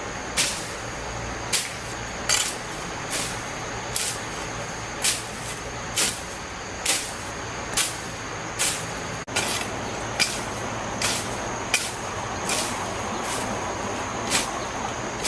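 A broom sweeping in quick, regular strokes, about one a second, over a steady hiss.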